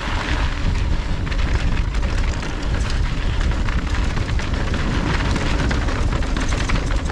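Yeti SB115 mountain bike ridden fast down dirt singletrack: a steady rush of wind on the microphone, with the tyres crunching over dirt and the bike rattling over bumps in many small clicks and knocks.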